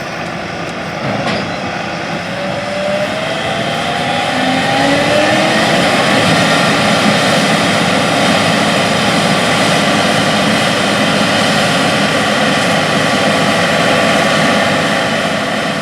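Heavy diesel engines running under load, with a dense rushing noise over them. About three seconds in the engine pitch rises and the sound grows louder, then it holds steady at the higher level.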